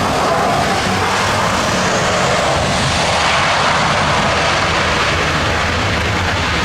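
Jet airliner engines, a loud steady roar that swells slightly through the middle.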